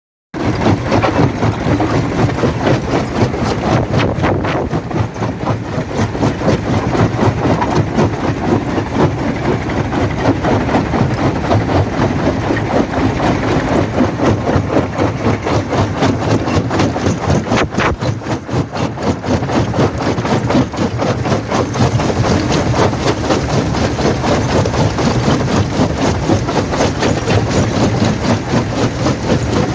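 Quarry primary jaw crusher running, a steady heavy mechanical drone with dense rapid knocking, and one sharper knock about eighteen seconds in.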